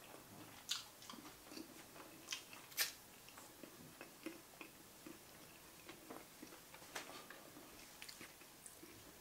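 A person chewing a mouthful of food, faint mouth sounds with a few irregular sharp clicks, the loudest just under three seconds in.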